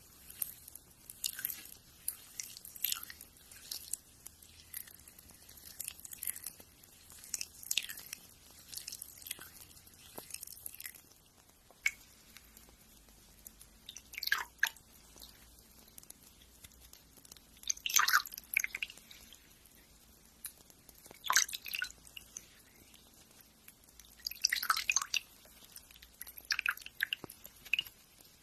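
Fingernails being filed close to the microphone: irregular clusters of short scratchy strokes with brief pauses between them.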